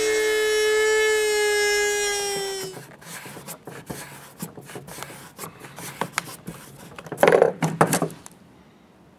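Dremel rotary tool with a cutoff wheel running at a steady high whine as it cuts through large-gauge steel staples, then spinning down and stopping about two and a half seconds in. After that come light clicks and scraping as a screwdriver picks at staples in the felt-lined beltline trim strip, with a louder scrape near the end.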